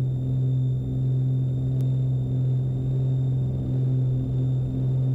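Cabin drone of a Beechcraft Baron B55's twin six-cylinder piston engines at climb power just after takeoff. It is a steady, low hum that swells and eases slightly.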